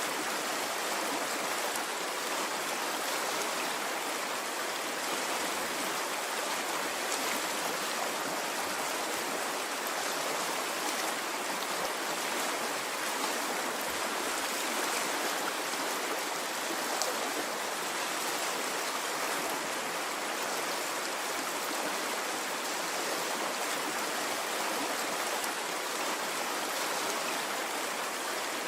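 A stream of running water flowing steadily, an even rushing with no surges or breaks.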